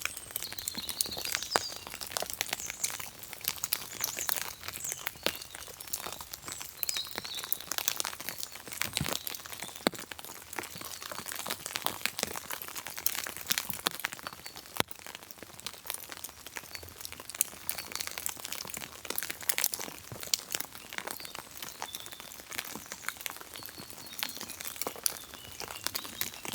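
Continuous rustling and crinkling with scattered small clicks and cracks as cord is wrapped and pulled around wooden sticks in a figure-8 lashing for a tripod seat.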